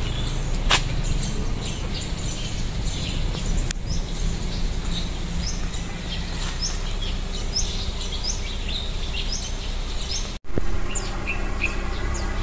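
Many small birds chirping, with short high chirps repeating over and over above a steady low outdoor rumble. The sound cuts out for a moment near the end.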